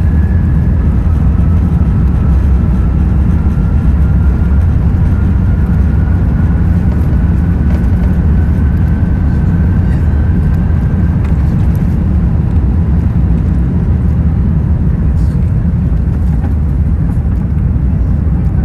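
Cabin noise inside an Airbus A380 on the ground during departure: a loud, steady low rumble from the engines and airframe. A faint whine slowly rises in pitch over the first ten seconds or so, and a few light clicks follow later.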